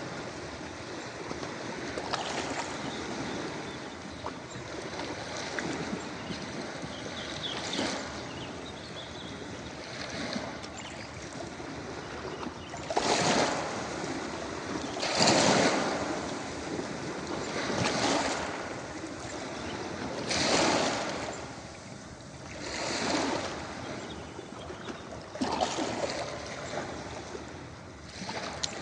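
Ocean waves breaking and washing up a beach: a steady rush of surf, with separate waves surging and falling away every two to three seconds in the second half.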